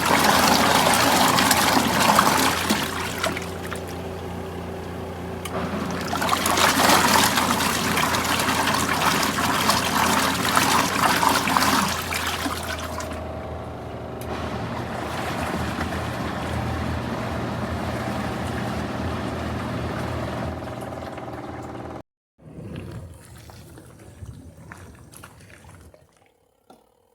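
Water pouring and splashing in a portable mini washing machine's tub in two loud spells, then a steadier running hum from the machine, which cuts off abruptly near the end.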